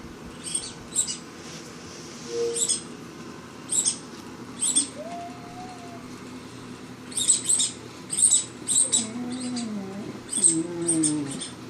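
Miniature Australian Shepherd puppy making playful noises: short, high squeaks come in clusters throughout. From about halfway, whines and grumbles rise and fall in pitch and grow more frequent toward the end.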